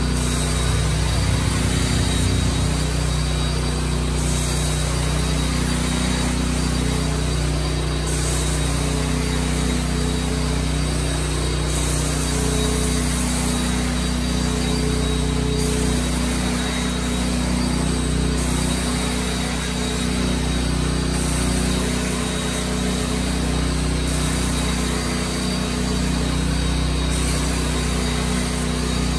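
Carpet-cleaning machine running steadily on a rug with a constant motor hum, its hissing changing every few seconds as it is worked back and forth in passes.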